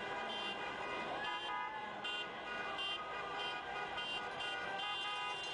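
Many horns honking at once in a street, short and long toots of different pitches overlapping without a break.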